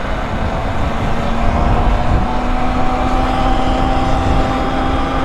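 Wind rumbling over the microphone on a moving bike, with a steady motor whine underneath that rises slightly in pitch as the bike picks up speed.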